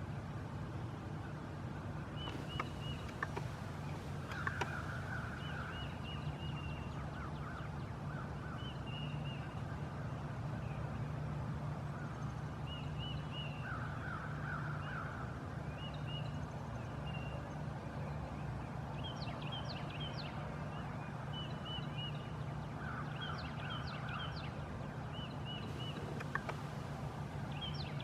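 Birds calling throughout, with repeated short chirps and several rasping calls, over a steady low hum from a power wheelchair's motor.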